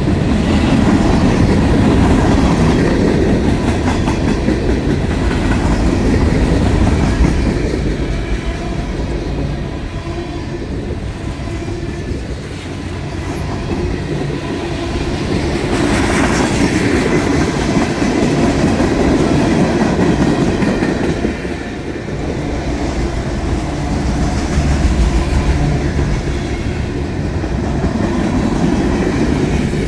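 BNSF freight train rolling past: a steady, loud rumble of the cars' steel wheels on the rails, easing off briefly twice before swelling again.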